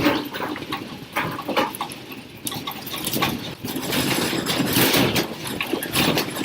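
Classroom furniture and objects rattling and clattering as an earthquake shakes the room: a dense, uneven jumble of knocks.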